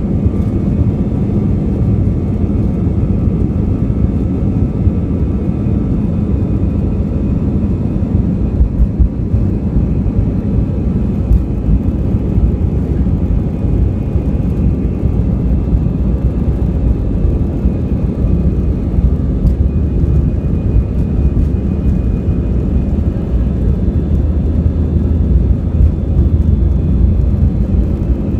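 Airbus A320 airliner's jet engines running with a steady, loud low rumble and a few faint steady whining tones above it.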